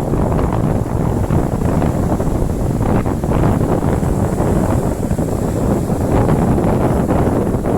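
Strong sea wind buffeting the microphone in a steady, rumbling roar, with sea waves beneath it.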